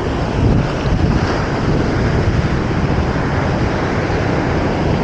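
Wind buffeting the microphone as a steady low rumble, over the continuous wash of ocean surf.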